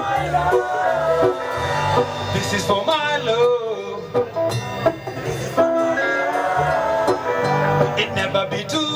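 Live lovers rock reggae band playing: a sung lead vocal over guitar and a bass line.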